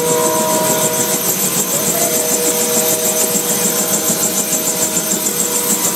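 Helicopter in flight: a steady turbine whine over the rotor's rapid, even beating.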